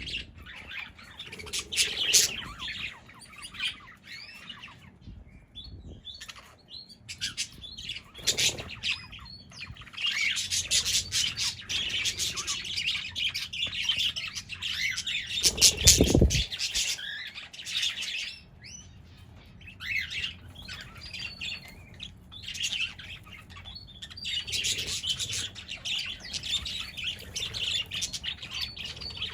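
A flock of pet parrots chirping and chattering continuously, with many calls overlapping and some busier stretches. A louder burst of noise comes about halfway through.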